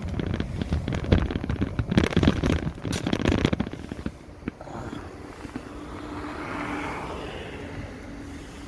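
Wind buffeting the microphone and road noise while riding an electric motorbike, rough and gusty, easing off about four seconds in as the bike slows to park. After that, a faint steady hum and passing traffic.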